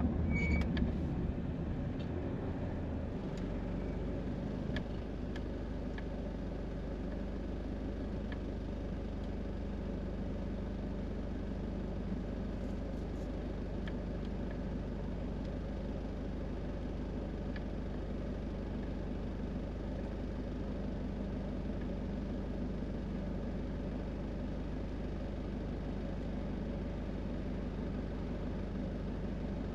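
A car engine idling, heard from inside the cabin: a steady low hum that settles during the first few seconds as the car comes to a stop.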